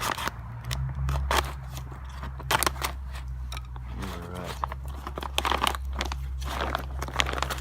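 Thick plastic MRE pouch being torn open and its contents handled, an irregular run of crackles and crinkles over a low steady hum.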